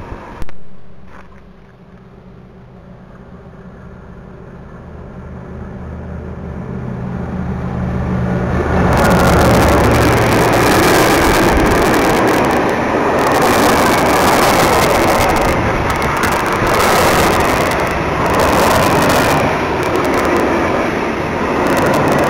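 A freight train passes close by. The locomotive's low hum builds as it approaches. From about nine seconds in comes a loud, pulsing rush of wheels and covered wagons rolling past on the rails, which goes on to the end. There is a single sharp knock near the start.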